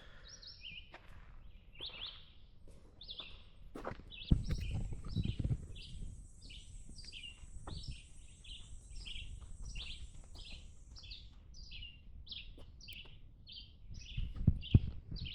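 A bird chirping over and over, about two short high chirps a second, with a faint steady high hiss behind it for part of the time. Low thumps about four seconds in and near the end are the loudest sounds.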